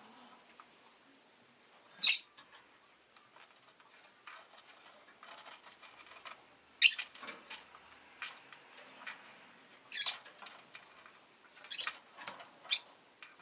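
Rosy-faced lovebird giving short, shrill chirps, five sharp calls spaced a few seconds apart, with faint small clicks and rustling between them.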